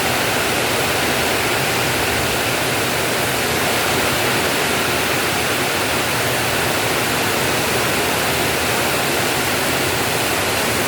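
Heavy rain pouring down in a windstorm, a loud, steady, even hiss.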